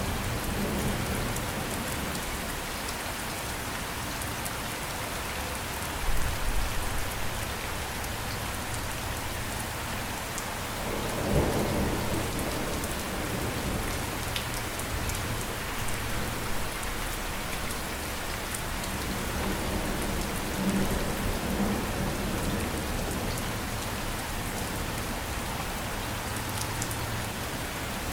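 Steady rain falling, with thunder rumbling low three times.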